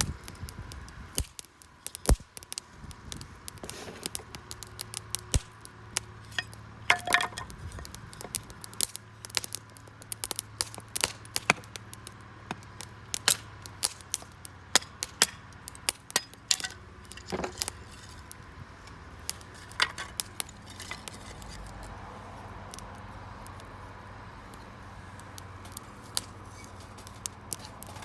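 Wood campfire crackling, with sharp, irregular pops and snaps that come thickest through the middle and thin out near the end.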